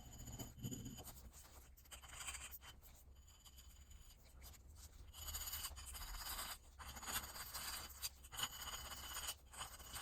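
Light scraping and rubbing strokes of hand work, irregular and on and off, busier in the second half with a few sharper scrapes.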